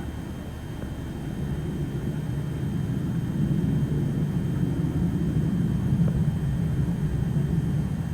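Low rumble of a jet aircraft overhead, swelling about three seconds in and then holding steady.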